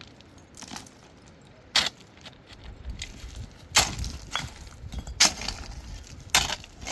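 Hard blows on stone: five sharp strikes at uneven intervals, each with a short bright ring, the first one lighter than the rest.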